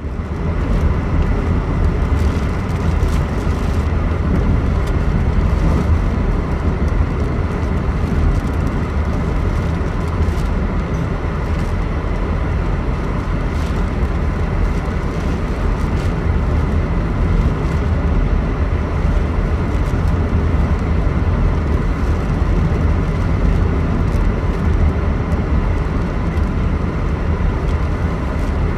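A steady, loud low rumble of storm wind and road noise, heard from inside a moving car.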